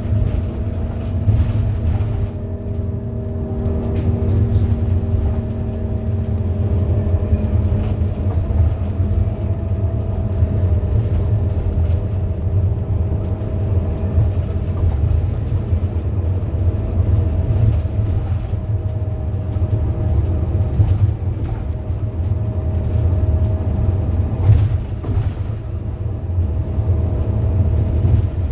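Scania K230UB bus's five-cylinder diesel engine running steadily under way: a low drone with a few steady whining tones above it that hold pitch, with no shifts or revving.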